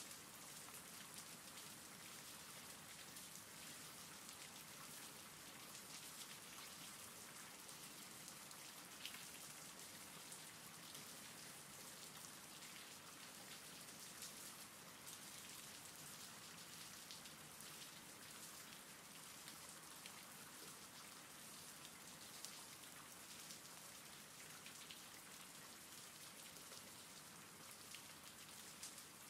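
Faint, steady rain falling, with single drops ticking here and there through the hiss.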